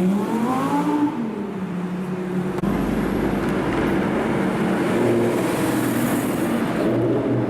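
A sports car's engine revving as it accelerates, its pitch rising over the first second or so, then running on at a steadier note with road noise.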